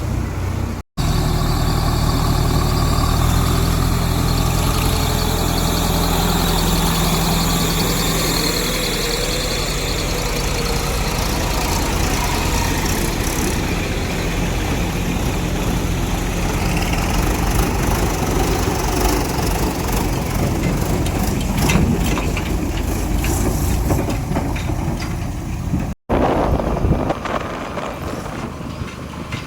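Heavy vehicle engine running with a steady low hum and mechanical noise. The sound drops out to silence for an instant about a second in and again near the end.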